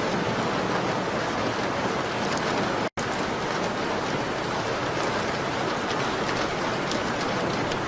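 Steady rain on a window, an even hiss with faint scattered ticks of drops. The sound cuts out completely for an instant about three seconds in, then resumes unchanged.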